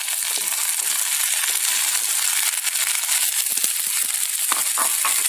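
Broccoli florets hitting hot oil in a kadhai, sizzling and crackling steadily, with a few soft knocks near the end.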